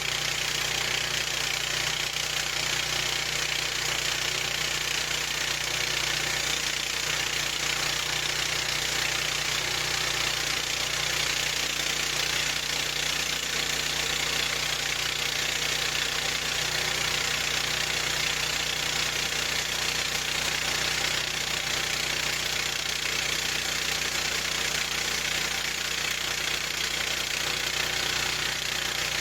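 Harbor Freight bandsaw sawmill's gasoline engine running steadily at an even speed.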